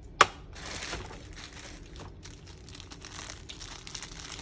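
A sharp click or snap near the start, then plastic packaging crinkling and rustling as small diorama parts are handled.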